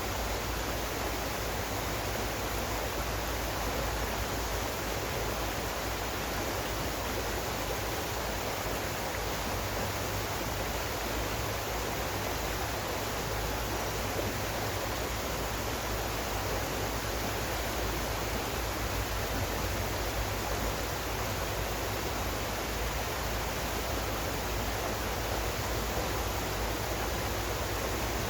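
Steady rushing water, an even unbroken wash of noise with no splashes or changes.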